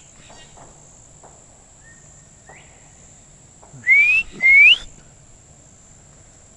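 Person whistling two short rising notes in quick succession about four seconds in, copying a bird's call. A faint, distant rising bird call comes a little earlier, over a steady high insect drone.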